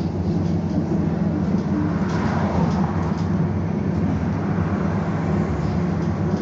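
Interior of a BKM-221 trolleybus under way: a steady low hum from its electric drive over road rumble, with a few faint clicks and rattles.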